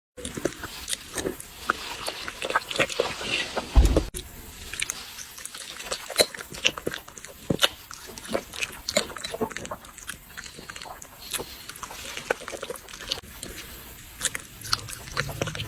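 Dogs eating rice, a steady run of irregular chewing and smacking clicks, with one heavy thump about four seconds in.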